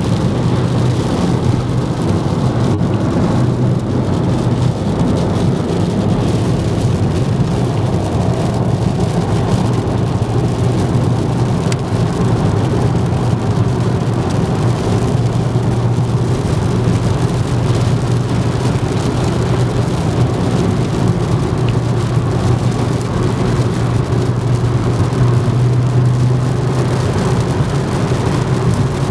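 Volkswagen Golf Mk4 V5's 2.3-litre five-cylinder engine running through a modified exhaust at a steady, unchanging note, with a rushing noise over it.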